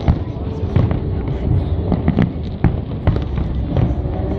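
Aerial fireworks display: shell bursts banging irregularly, about three a second, over a steady low rumble.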